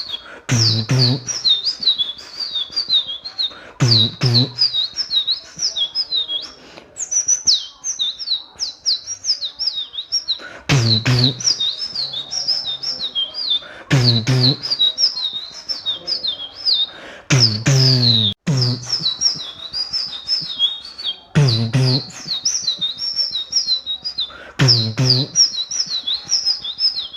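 Human mouth mimicry of bird chirping: fast runs of high, warbling chirps. Every few seconds the chirping is broken by a deep beatbox bass hit.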